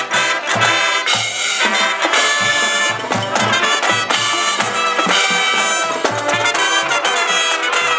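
Marching band playing a tune: brass instruments carry the melody over a steady beat of drums, with repeated low notes underneath.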